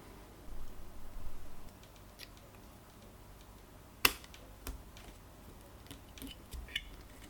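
Small clicks and taps of a camera being handled and worked on, with one sharp click about four seconds in and a few lighter clicks after it.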